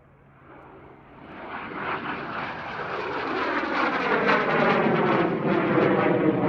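A fixed-wing aircraft flying towards the listener at an airshow, its engine noise rising out of quiet about half a second in and growing steadily louder over the next few seconds.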